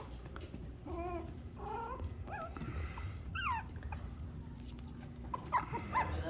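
Chihuahua puppies whimpering: scattered short high-pitched whines, one falling steeply about halfway, then a quick run of short yips near the end.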